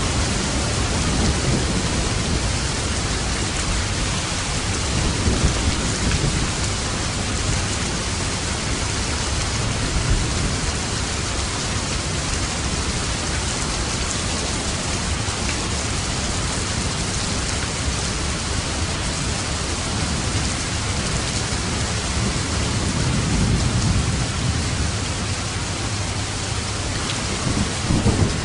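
Steady rain with light thunder rumbling low underneath, the rolls swelling a few seconds in and again near the end.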